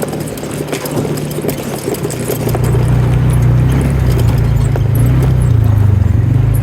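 A vehicle engine running, with some knocks and rattles in the first two seconds; its low drone grows louder about two and a half seconds in and then holds steady.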